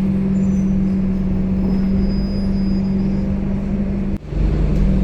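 Scania K270UB city bus engine and drivetrain droning steadily, heard from inside the passenger cabin, with a strong low hum. The sound dips sharply for a moment about four seconds in, then carries on.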